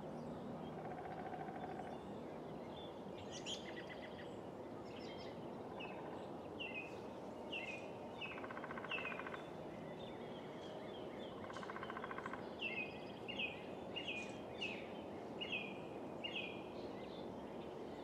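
Birds chirping over a steady background hiss: a run of short chirps that each drop in pitch, coming more often in the second half, with two brief buzzy calls in the middle.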